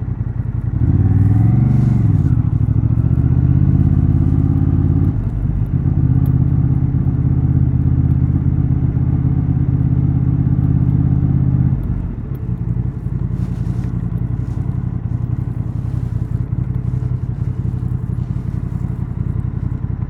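Honda Transalp XL750's 755 cc parallel-twin engine and exhaust under way: the revs rise about a second in, a short break near five seconds in is typical of a gear change, and it then pulls steadily. About twelve seconds in the throttle closes and the engine runs quieter at lower load to the end.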